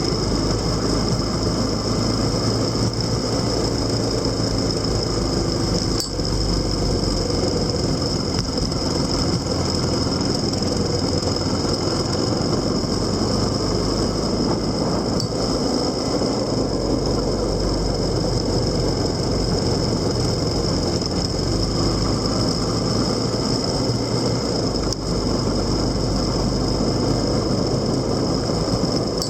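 Motorcycle engine and road noise running steadily, with no change of pace, under a steady high-pitched whine.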